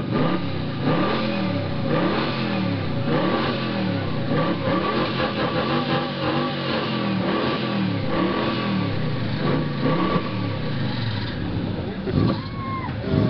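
1972 Dodge Charger's modified 400 V8 being revved over and over through its exhaust, the engine note climbing and dropping about once every second and a half.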